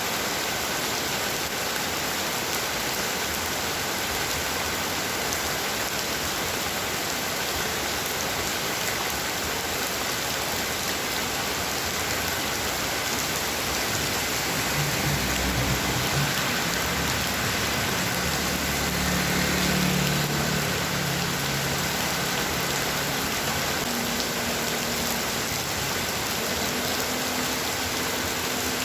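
Heavy rain falling steadily. For several seconds around the middle, a low drone swells and fades beneath it.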